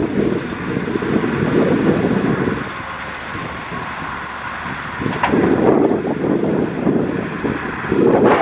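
Heavy earthmoving machinery's diesel engine working under load, its rumble loud for the first couple of seconds, easing off, then swelling again about five seconds in. A single sharp knock sounds just as it swells.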